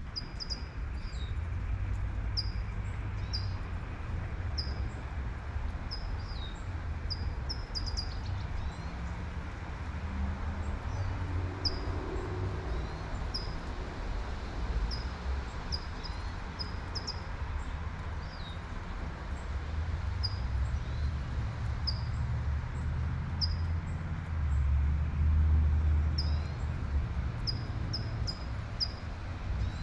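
Steady hiss of light rain under a low rumble of city traffic, which swells near the end as a vehicle passes. A songbird repeats short, high chirps about once a second throughout.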